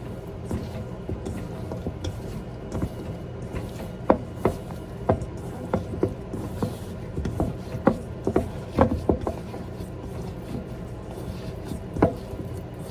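Knife cutting food on a wooden cutting board: a string of irregular sharp knocks, thickest in the middle, with one more near the end.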